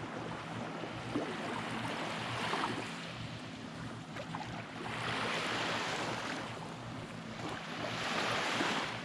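Small waves washing onto a beach, the surf swelling and fading three times.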